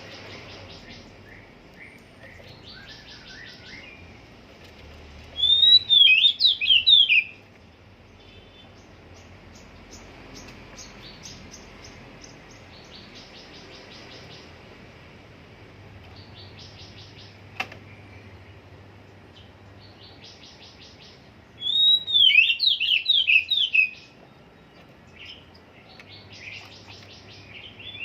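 Oriental magpie-robin (kacer) singing: two loud bursts of quick whistled notes, one about five seconds in and one about twenty-two seconds in, each lasting about two seconds. Fainter rapid chattering trills fill the gaps. The bird's song is still being set, not yet in its finished form.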